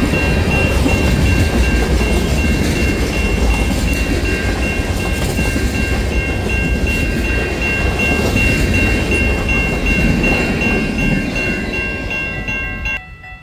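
Freight cars of a CN train rolling past at close range, a steady rumble of wheels on rail that stops abruptly near the end.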